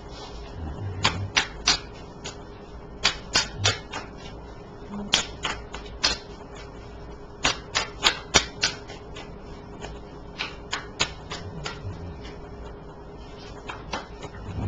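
Tarot cards being handled and set down on a table: a string of sharp, irregular clicks and taps, some coming in quick clusters.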